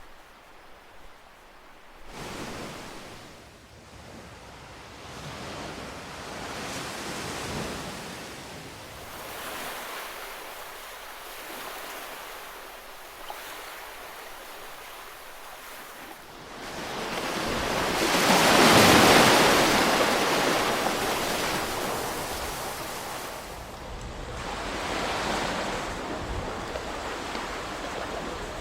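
Ocean waves breaking and washing on shore in slow surges, the largest cresting about two-thirds of the way through, with wind in the background.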